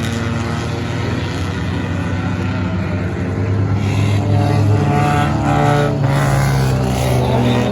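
Stock car engines running at racing speed on a track, several at once. About halfway through they grow louder and rise in pitch.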